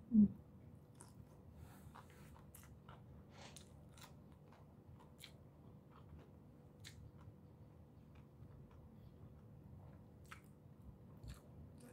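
Close-up mouth sounds of a person chewing chicken tocino and rice: soft, scattered wet clicks and small crunches. A brief, louder vocal sound comes right at the start.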